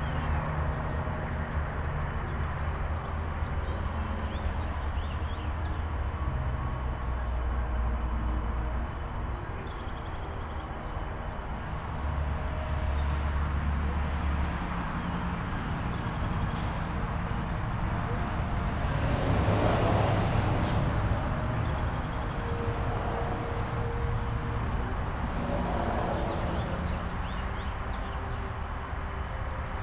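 Steady vehicle traffic with low engine hums from heavy vehicles shifting in pitch, and one vehicle passing close and loud about two-thirds of the way through.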